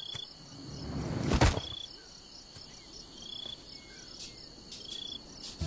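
Crickets chirping in short repeated pulses over a steady insect hiss. About a second and a half in, a rising whoosh ends in a sharp thump, the loudest sound here.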